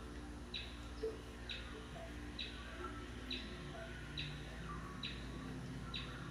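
A bird calling outdoors, repeating a short, high, falling chirp about once a second.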